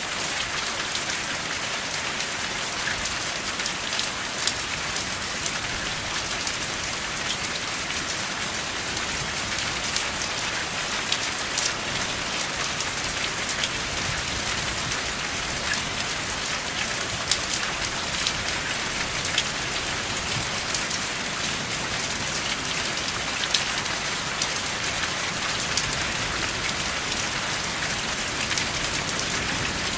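Steady rain without thunder: a dense, even hiss with many sharp drop ticks scattered through it.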